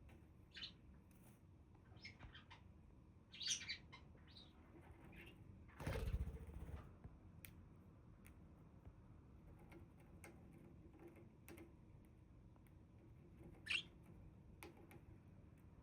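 Budgerigars giving scattered short chirps, loudest in a quick cluster about three and a half seconds in and again near the end, with a brief rustling burst about six seconds in.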